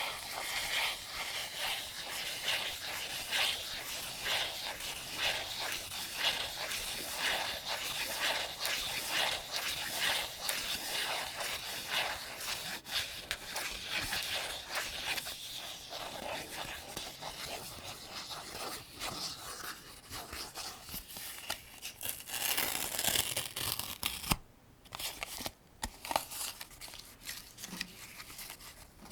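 Rifle cartridges being loaded one after another into an AK-47 75-round drum magazine: a close, dense run of small metallic clicks and scraping, with a brief pause a little over three-quarters of the way through.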